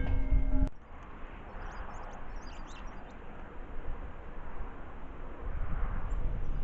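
Small birds chirping briefly and sporadically over a steady outdoor background hiss, after a sustained low tone cuts off suddenly under a second in.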